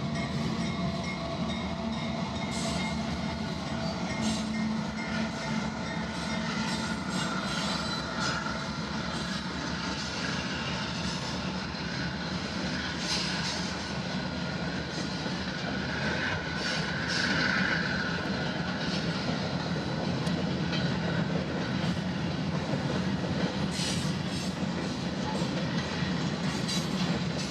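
Canadian Pacific freight train rolling past: a steady rumble of the passing cars with scattered wheel clatter, and a brief faint wheel squeal a little past the middle.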